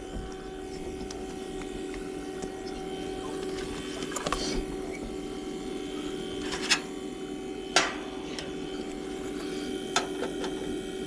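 A steady machine hum at several fixed pitches, with a few sharp clicks or taps scattered through it.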